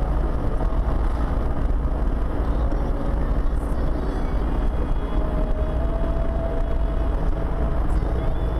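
Steady low rumble of engine and road noise from a car being driven, with no impact or crash sound.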